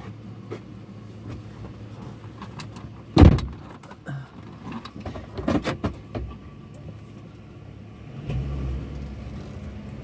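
Vehicle engine idling, heard from inside the cab, with one loud sharp thump about three seconds in and a few smaller clicks and knocks a couple of seconds later. Near the end the engine rumble rises as the vehicle starts to move off.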